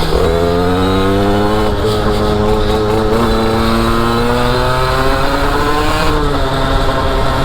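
Derbi motorcycle engine riding off and accelerating, its pitch climbing steadily and dropping back about six seconds in.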